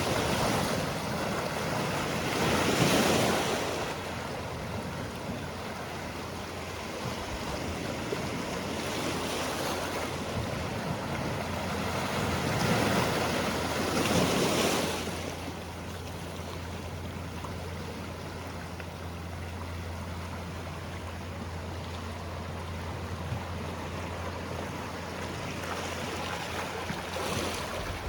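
Sea waves breaking and washing on the shore, with a steady rush of surf and swells that build to loud peaks about three seconds in and again around thirteen to fifteen seconds in, then ease off.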